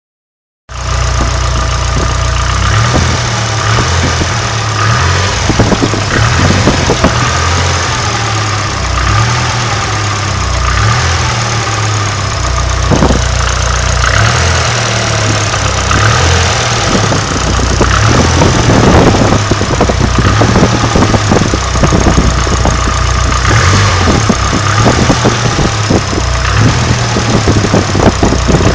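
Nissan SR20DET turbocharged 2.0-litre four-cylinder engine running steadily, starting about a second in, with an irregular ticking clatter over its low pulsing note. The owner suspects the noise comes from the hydraulic lifters or the timing chain tensioner.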